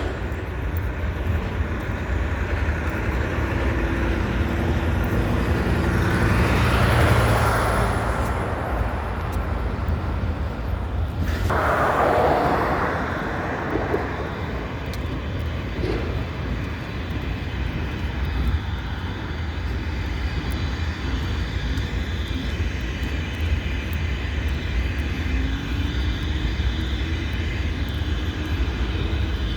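Freight train of tank cars rolling past, a steady low rumble with wheel noise, swelling louder about seven and twelve seconds in.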